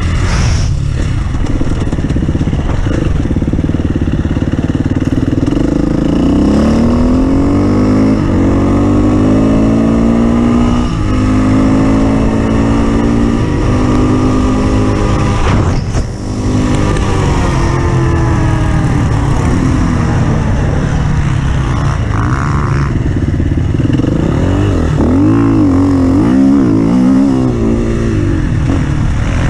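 Off-road racing engine running hard, its pitch climbing and falling again and again as the throttle is opened and closed. A brief drop in level with a knock about halfway through.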